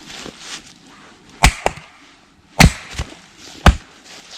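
Firewood being split by chopping: three sharp strikes about a second apart, the first two each followed by a lighter knock. The wood is wet, soaked through to the centre.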